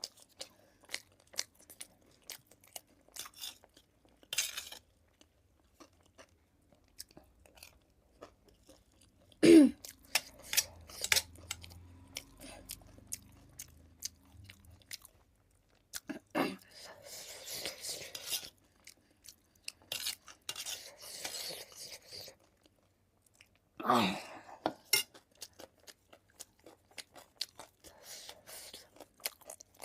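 Close-miked chewing of food: many short wet mouth clicks, with a few louder noisy bursts spread through.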